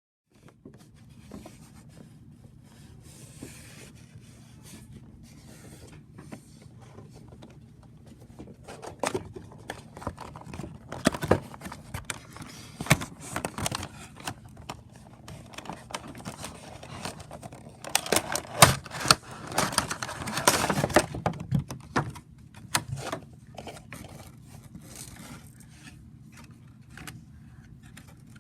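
Gift wrapping and packaging being handled and opened: scattered clicks and scrapes, with two busier, louder stretches of rustling about a third of the way in and again about two-thirds in.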